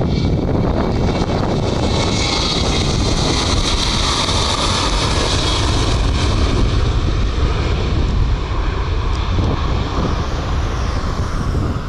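Jet airliner's engines, a loud steady rumble with a high whine that swells over the first few seconds and eases off towards the end.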